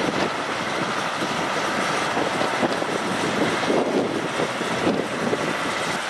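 Heavy military truck engine running steadily as the MAN KAT1 8x8 tows a stuck Unimog 406 out of a river, mixed with rushing water and wind buffeting the microphone.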